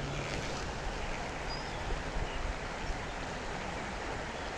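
Creek water running steadily, a constant rushing hiss.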